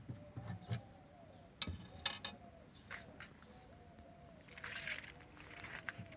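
Screwdriver and hand work on a refrigerator's plastic thermostat housing as its screws are taken out: two sharp clicks about a second and a half in, then two short bursts of scraping near the end.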